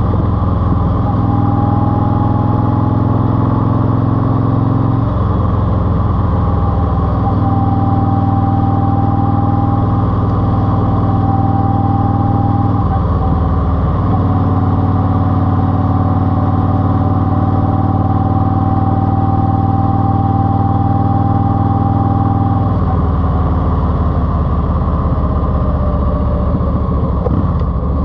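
Eluder GT's engine running through a TAB aftermarket exhaust with 2.5-inch baffles. It holds a steady speed for a few seconds at a time, stepping up or down in pitch several times, with a thin steady whine above the exhaust note.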